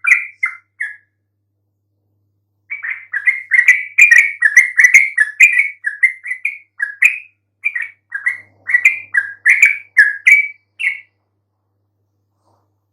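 Yellow-vented bulbul (trucukan) song: rapid, bubbly chirping phrases, a short burst at the start, then after a pause of about two seconds a long run of song for about eight seconds before it stops.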